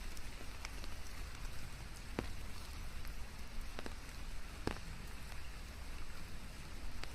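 Steady rain falling in a forest, mixed with white noise, with a few single drops tapping sharply now and then.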